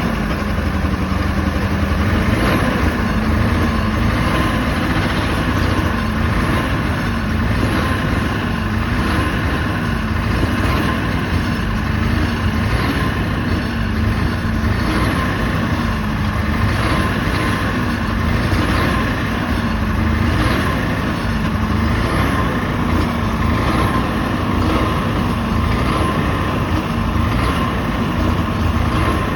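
Caterpillar diesel generator engine running steadily just after a cold start at about -22 °C, its low hum wavering slightly about every two seconds.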